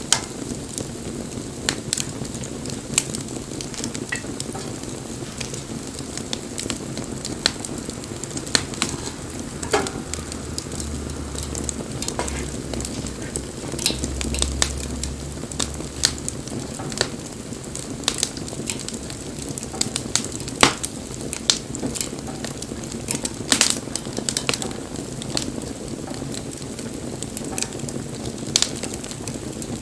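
Wood bonfire burning: a steady hiss with irregular crackles and sharp pops from the burning wood.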